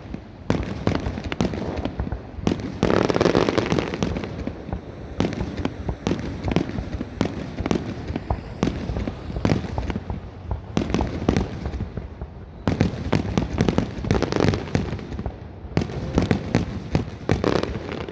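Aerial fireworks going off in rapid succession: a steady run of sharp bangs and crackles, thickening into dense volleys several times.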